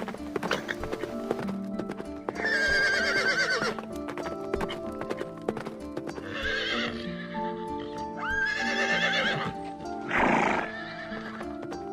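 A horse whinnying, two long quavering calls with a weaker one between, and a loud breathy burst near the end, over soft background music with steady sustained notes.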